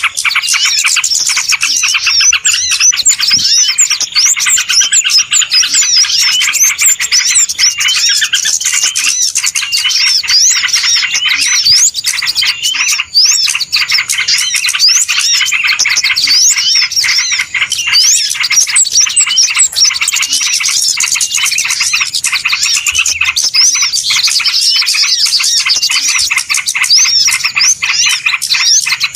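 Dense, unbroken chorus of many small birds chirping and twittering over one another, a noisy bird-luring (pikat) call recording of small birds.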